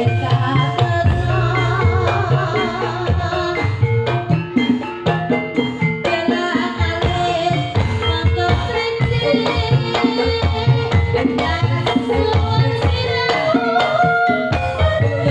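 Live ebeg dangdut kreasi music played through a PA sound system: hand drums keep a busy, driving rhythm under a wavering melody line.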